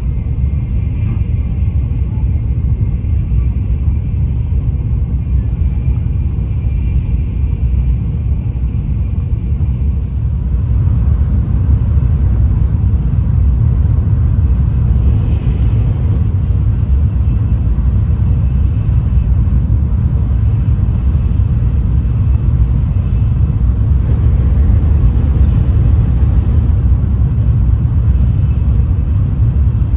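Shinkansen bullet train running at speed, heard inside the passenger cabin: a steady low rumble of wheels on track, growing a little louder about ten seconds in.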